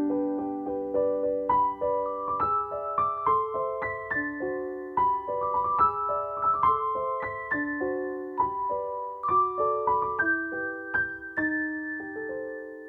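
Background piano music: a keyboard plays a run of single notes over held lower notes, ending on a long held chord that slowly fades out.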